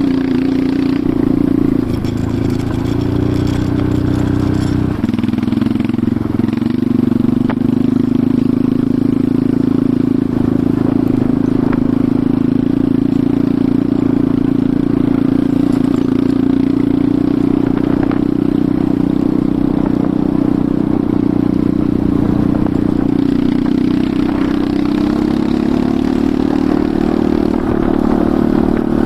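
Enduro motorcycle engine running steadily, its pitch shifting a few times with the throttle, with some clatter over it.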